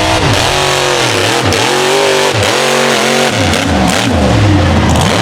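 Mega truck's engine revving hard, its pitch climbing and dropping over and over as the throttle is worked.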